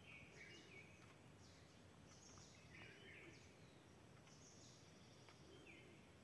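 Near silence, with faint, short bird chirps repeating about once a second.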